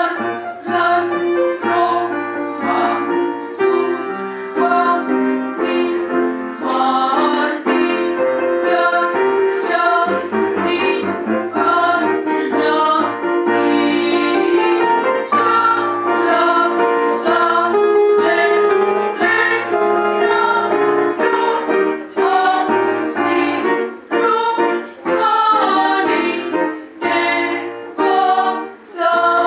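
Mezzo-soprano section singing a passage together in phrases, with piano accompaniment.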